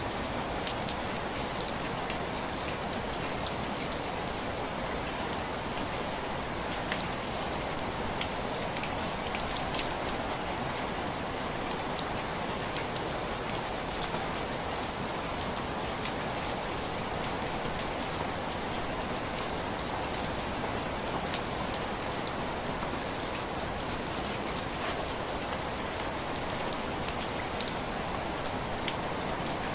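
Steady rain pattering on window glass, a dense even hiss with scattered individual drops ticking sharply against the pane.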